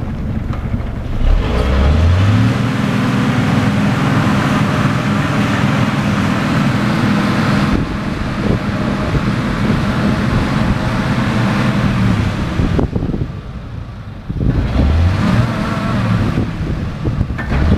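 A motor vehicle's engine accelerating with road and tyre noise: its pitch rises about a second and a half in, holds steady, drops off around twelve seconds, then climbs again twice near the end.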